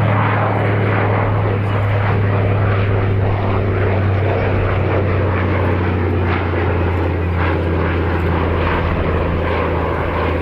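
Consolidated PBY-5A Catalina flying boat passing in a display, its twin Pratt & Whitney R-1830 radial engines and propellers making a steady low drone that sinks slightly in pitch past the middle.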